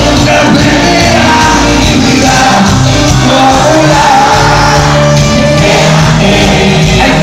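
Live cuarteto band music with a voice singing, loud and continuous.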